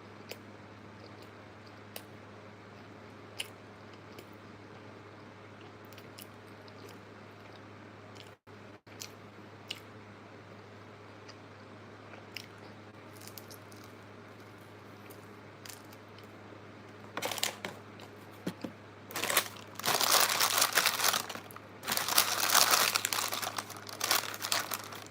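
A long quiet stretch with a low steady hum and a few faint clicks. Then, in the last eight seconds, loud crinkling and crunching close to the microphone, in two long runs with shorter bursts around them, from the fast-food meal and its packaging being handled and eaten.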